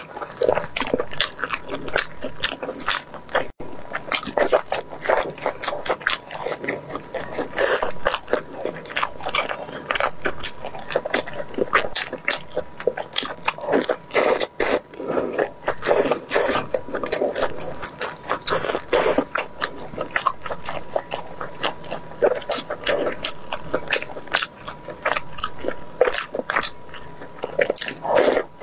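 Close-up eating sounds of braised pork knuckle being bitten and chewed: a rapid, irregular run of wet smacks and sticky clicks from the mouth, going on throughout.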